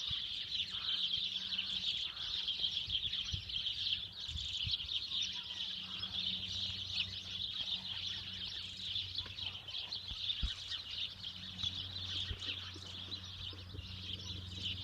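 Small songbirds chirping and twittering continuously, many overlapping calls at once.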